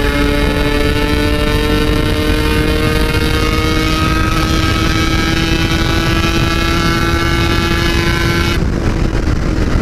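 Yamaha RX-King 135cc two-stroke single engine pulling hard through a Packing Power aftermarket exhaust while overtaking, its pitch climbing slowly, then easing off near the end.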